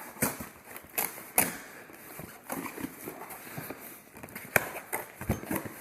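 Cardboard box being cut open and handled: irregular scratchy scraping broken by sharp clicks and knocks, the loudest knock a little past four and a half seconds in.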